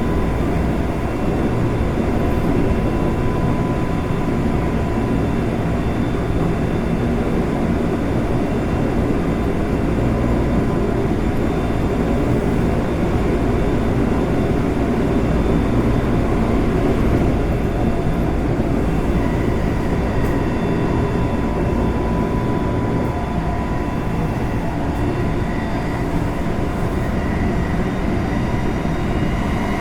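Interior running noise of a Semboku Rapid Railway 5000 series electric train (Hitachi GTO VVVF inverter control) travelling between stations: a steady rumble of wheels on rail with faint steady high tones, air conditioning running.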